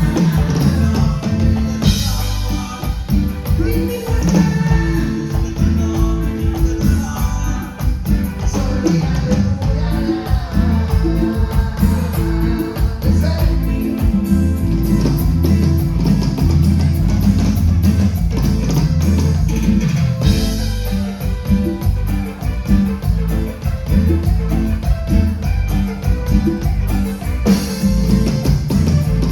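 A live Latin band playing, with drum kit, bass, guitar and a singer over a steady dance beat.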